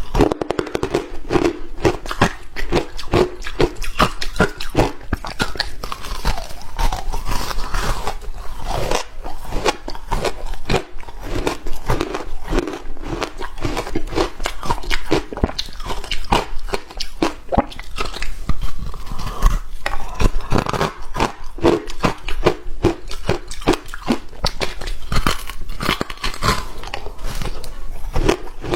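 Hard ice being bitten and chewed close to the microphone: a dense, continuous run of sharp crunches and cracks.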